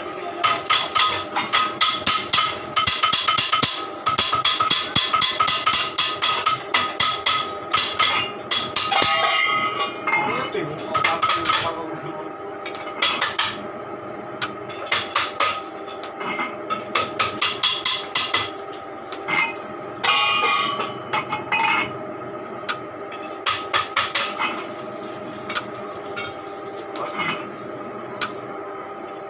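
Hammer blows on metal, most likely sheet-steel exhaust parts being shaped: a fast, dense run of strikes for about the first twelve seconds, then sparser groups of taps, with a steady metallic ringing under them.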